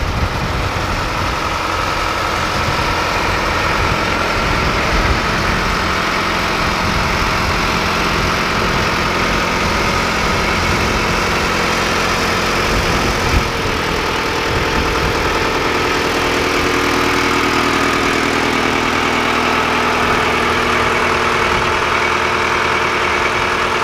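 Sonalika 750 DI RX tractor's diesel engine running steadily throughout, its low rumble settling into a smoother, even tone about halfway through.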